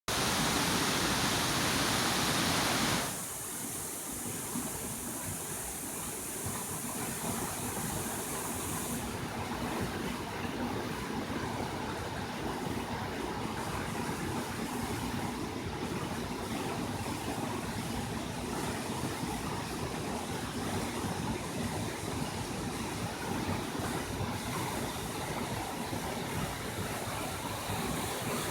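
Watagataki waterfall running full with snowmelt: a steady roar of falling water, louder and brighter for the first three seconds, then even and a little softer.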